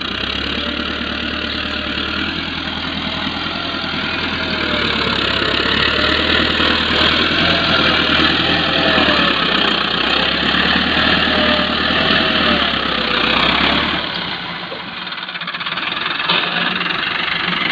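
Massey Ferguson tractor's diesel engine running under load, its note rising and falling. About fourteen seconds in, the deep drone drops away and the engine briefly goes quieter, then picks up again.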